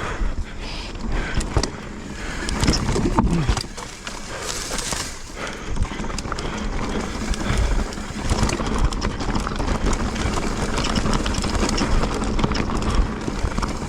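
Mountain bike ridden fast down a dirt singletrack: wind rushing over the camera's microphone, tyres on dirt, and the bike rattling and knocking over bumps.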